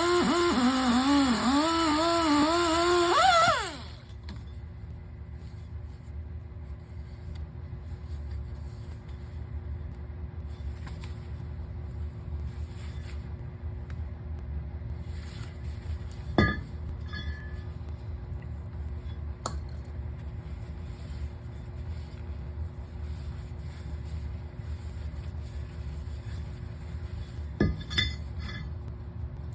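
A loud warbling tone with wavering pitch stops about four seconds in. After it comes a low steady hum with a few scattered sharp metallic clinks and knocks.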